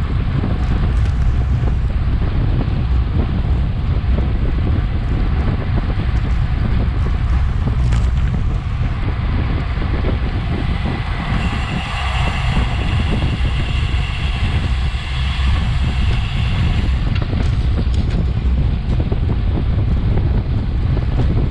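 Heavy wind rushing over an action camera's microphone on a racing bicycle at speed, a steady low rumble; for several seconds in the middle a higher-pitched whir rides over it.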